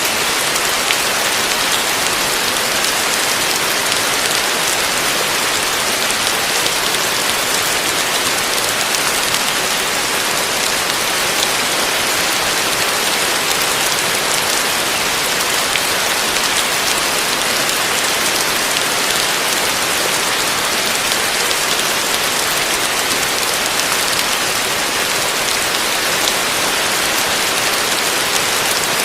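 Heavy rain falling steadily: a dense, even hiss of countless drops that stays the same throughout.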